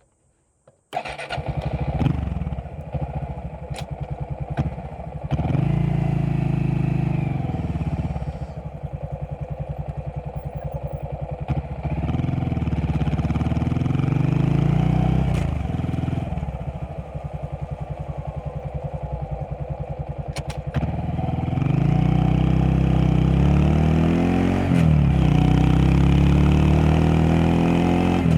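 Honda Monkey 125's single-cylinder four-stroke engine starting about a second in and idling with an even putter, then revving up and down as the sidecar rig pulls away, with another stretch of idling in the middle and steadier, higher revs near the end.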